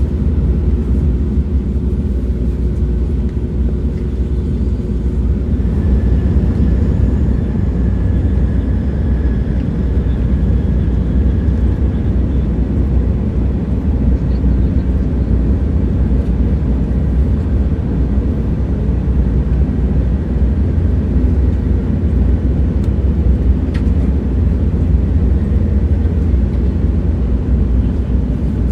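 A moving train, heard as a steady low rumble with a faint high whine for a few seconds partway through.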